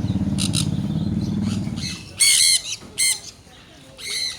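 Pet birds squawking: loud, harsh calls start about two seconds in and come three times, after a low buzzing drone in the first two seconds.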